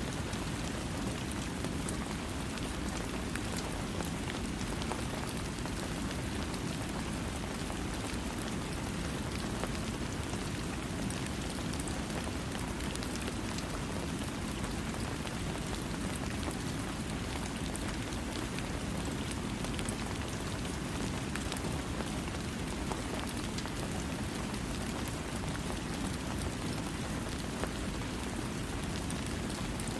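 Steady rain falling on a surface without thunder, an even hiss with many fine drop ticks over a deeper wash.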